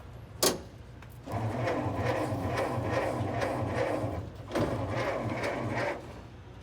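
Ford Model T's electric starter cranking the engine in two bursts, with a rhythmic chug of about two to three compression strokes a second, and the engine not catching. A sharp click comes just before the first burst.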